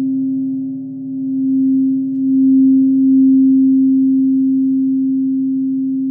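Crystal singing bowl sounding one steady, low ringing tone with fainter overtones above it. The tone swells a few times, then slowly fades.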